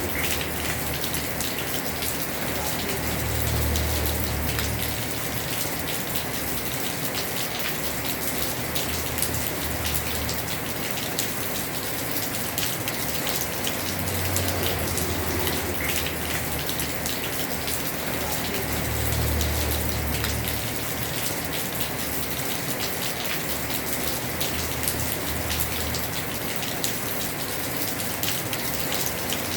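Heavy rain falling steadily on a house roof: an even hiss of many drops, with a low rumble that swells and fades every few seconds underneath.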